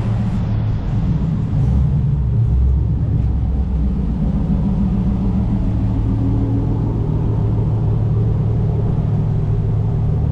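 A car engine idling steadily, a loud, even low rumble.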